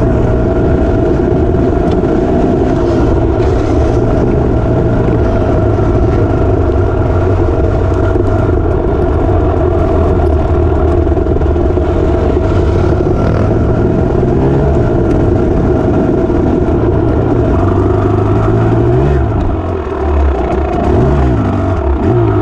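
Dirt bike engine running steadily under way, with a few quick throttle blips rising and falling in pitch near the end.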